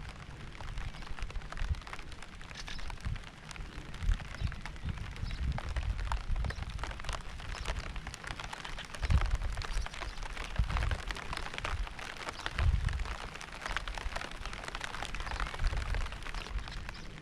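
Steady rain with many individual drops ticking close to the microphone, under irregular low rumbles that come and go every second or two.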